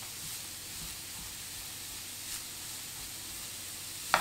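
Cauliflower rice and button mushrooms sizzling in coconut oil in a frying pan, a steady soft hiss, with a sharp tap near the end.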